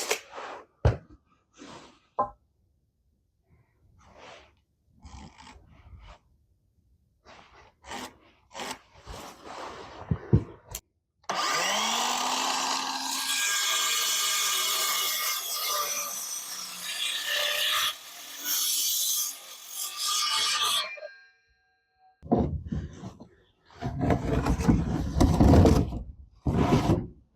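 A power saw spinning up and cutting wood for about nine seconds, with a brief pause partway through. Scattered clicks and knocks come before it, and loud irregular scraping and knocking of wood come after.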